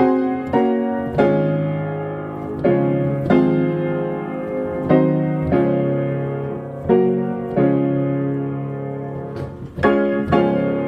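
Piano playing a slow hymn in full chords, each chord struck and left to fade before the next, with a brief dip in level just before a fresh chord near the end.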